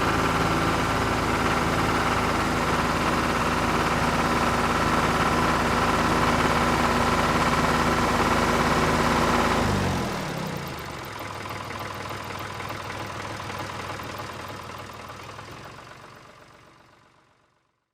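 A motor running steadily, then dropping in pitch about ten seconds in as it winds down and fades out.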